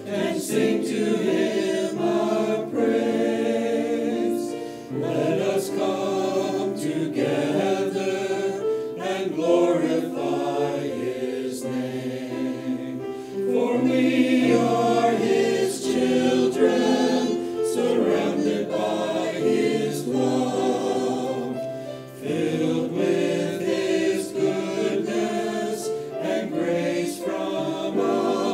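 A church choir singing in sustained harmony, chords changing every second or two.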